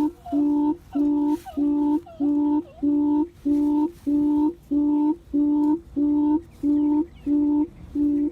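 Recorded quail call played back from an MP3 player as a trapping lure: a low hooting note repeated about twice a second, each note held at one steady pitch. Faint short chirps from other birds sound between the notes.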